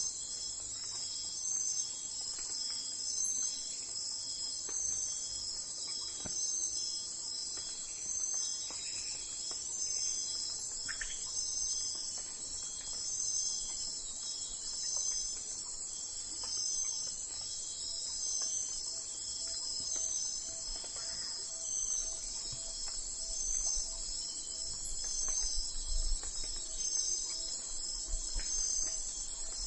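Steady high-pitched chorus of insects such as crickets, trilling continuously with a pulse about once a second. A faint low rumble comes in near the end.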